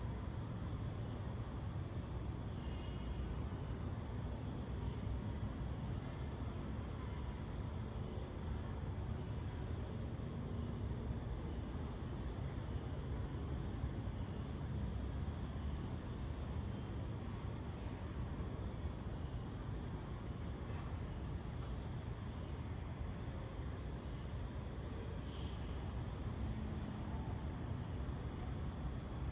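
Crickets chirping in a steady, evenly pulsing high trill that never stops, over a low, even background rumble.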